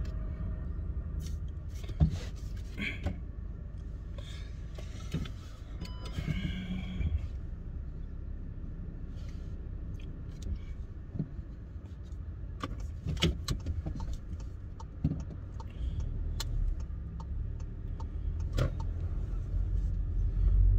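Steady low rumble of a car's engine heard inside the cabin, with scattered clicks and rustles of a phone being handled in a dashboard mount. The rumble grows louder near the end.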